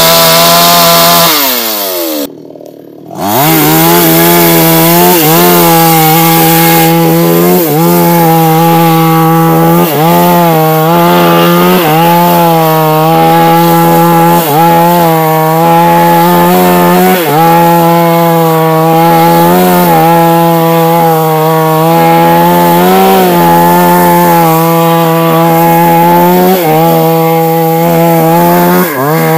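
New West two-stroke chainsaw running at full throttle while cutting a large sengon trunk. It falls back briefly about two seconds in, then revs up again and holds high revs, its pitch dipping every couple of seconds as the chain bites under load.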